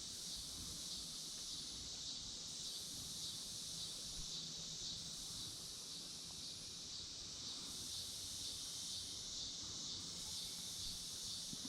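A faint, steady chorus of insects: a high, shrill hiss with a fine rapid pulsing, unbroken throughout.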